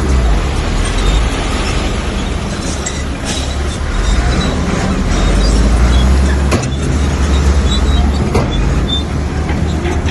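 Komatsu bulldozer's diesel engine running hard with a heavy, rising and falling rumble, with a few sharp knocks and clanks from the tracks and the stones it pushes.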